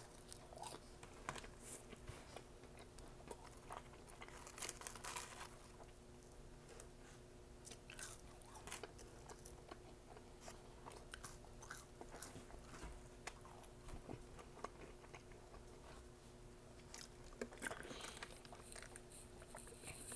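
Faint close-up chewing and biting of McDonald's food, with soft crunches and mouth clicks scattered through; a sip from a soda cup near the end.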